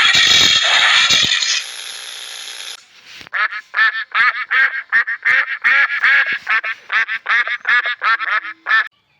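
A loud rushing noise for about the first second and a half, then a duck quacking in a fast run of short quacks, about four a second, for nearly six seconds.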